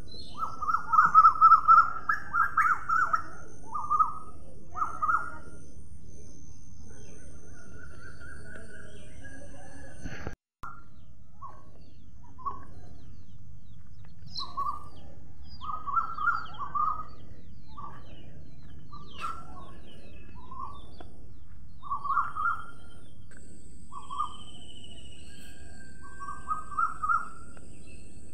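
Birds calling in a steady outdoor ambience: short chirping calls repeated in quick clusters, loudest in the first few seconds. The sound cuts out for a moment about ten seconds in.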